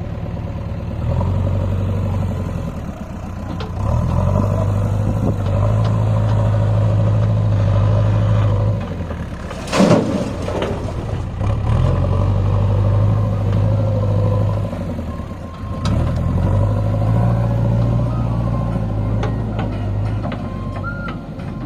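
Heavy diesel vehicle engine labouring under load, its note swelling to a loud, held pull four times with short drops in between. A brief sharp noise cuts in about ten seconds in.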